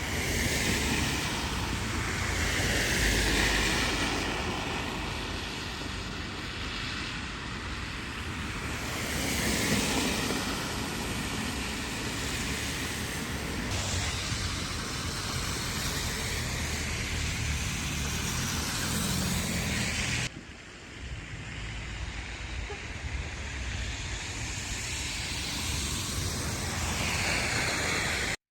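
Traffic on snowy, slushy city streets: tyre hiss from passing cars swelling and fading several times over a steady background of wind.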